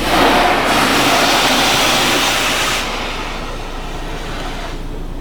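Touchless automatic car wash spraying the pickup: a sudden hiss of spray on the body that starts at once, eases about three seconds in and dies away near the end, over a steady machine hum.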